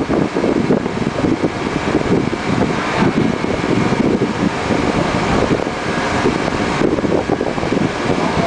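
Continuous drone of offshore gas-platform machinery, with a faint steady whine, mixed with wind buffeting the microphone.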